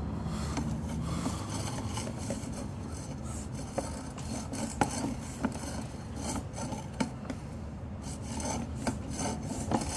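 Sewer inspection camera's push-rod cable being fed through the line, a steady rubbing and scraping with scattered sharp clicks.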